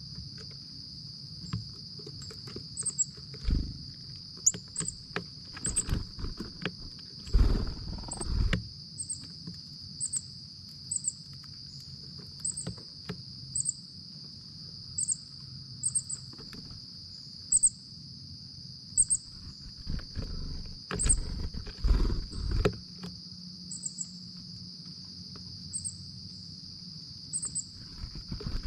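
A steady, high insect chorus of crickets or katydids, with short, high chip notes about once a second. Irregular knocks and thumps close to the microphone come through, in two louder clusters, a few seconds in and again past the middle.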